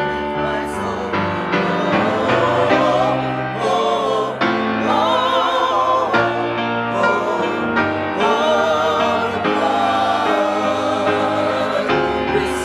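Church choir singing with accompaniment, sustained notes held with a wavering vibrato.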